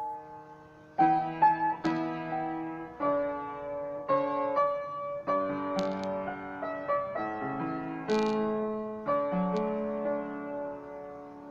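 Solo piano playing a slow piece, chords struck about once a second and left to ring and fade.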